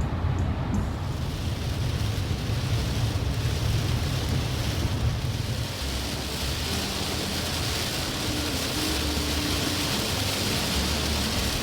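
Pouring rain on a car while driving, a steady hiss that swells about a second in, over the car's low road rumble.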